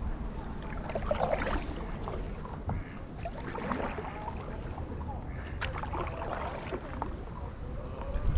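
Paddle strokes in canal water beside a stand-up paddleboard, a splashy dip roughly every couple of seconds, over a steady low wind rumble on the microphone.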